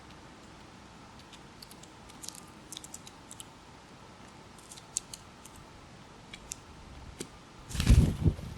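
Scattered light, sharp clicks and ticks, a few at a time, then a loud, brief rustling thump near the end.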